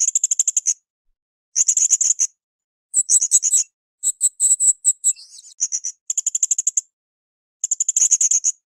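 Blue-crowned hanging parrot (srindit) calling in rapid bursts of sharp, high-pitched chattering notes, six bursts of under a second each, separated by short clean silences.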